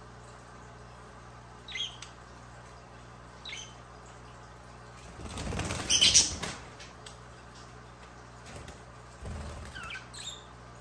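Pet budgerigar giving a few short, separate chirps, with a loud flurry of wing flapping in the middle lasting about a second and a half.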